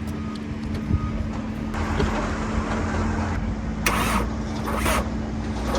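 Road vehicle noise: a steady engine hum and low rumble, with two short hissing surges near the end.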